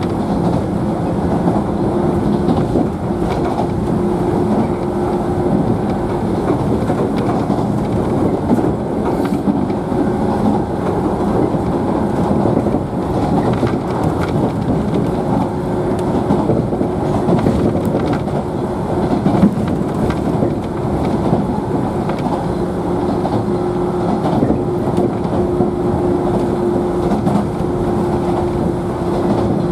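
Running noise heard from inside a JNR 113 series electric train's motor car: a steady rumble of wheels on rail with a low, steady hum.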